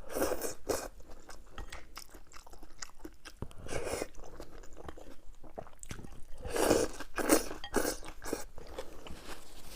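Close-up biting and chewing of crisp, crunchy food, in bursts of crunches, the heaviest run about six and a half to eight and a half seconds in.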